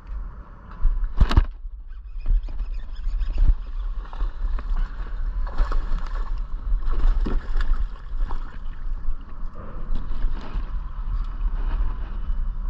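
Water sloshing and gurgling against a small boat's hull over a steady low rumble, with a sharp knock about a second in and scattered small clicks and rustles after it.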